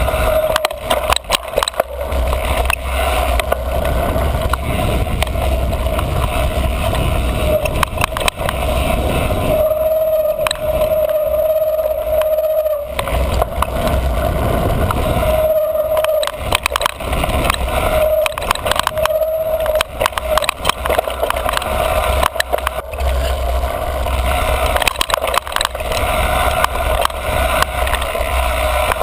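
Niner MCR mountain bike riding fast over dirt singletrack: wind rumble on the microphone and a constant rattle and clatter of the bike over the bumpy trail. The front brake squeals with a steady high note each time it is applied, longest from about ten to thirteen seconds in, with shorter squeals after.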